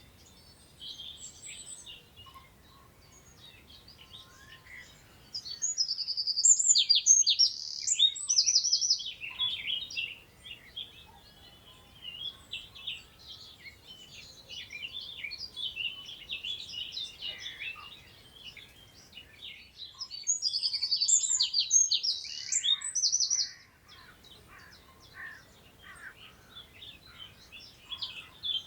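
Several songbirds singing and twittering together, with one nearby bird giving a loud song phrase of about three seconds twice, once about a fifth of the way in and again about three-quarters through.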